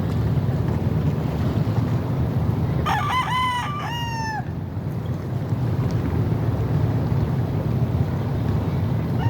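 A rooster crowing once about three seconds in: a run of short rising-and-falling notes ending in a longer falling note, over a steady low rumble.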